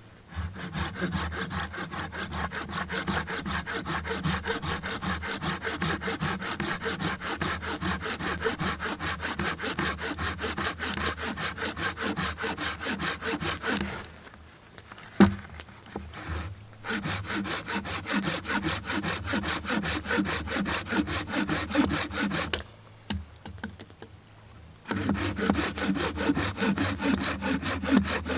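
Hand saw cutting through a log of dense, slow-grown Alaska yellow cedar, in quick, even back-and-forth strokes. It saws in three runs, with two short pauses and a single knock in the first pause.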